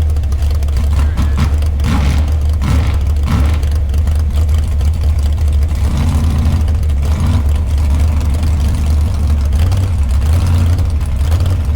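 Truck engine running with a steady deep rumble.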